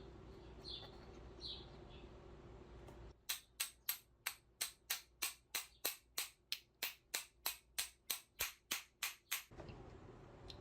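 A regular series of about twenty sharp clicks, roughly three a second, lasting about six seconds. Before them come a few faint chirps over a low steady hum.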